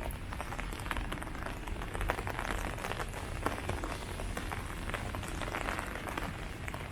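Steady rain falling on leaves, with many separate drop hits sounding through the steady hiss.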